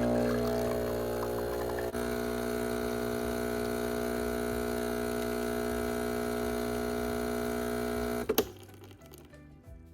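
Breville Barista Express espresso machine's vibratory pump buzzing steadily while pulling an espresso shot. The buzz changes slightly about two seconds in, then cuts off abruptly with a click about eight seconds in.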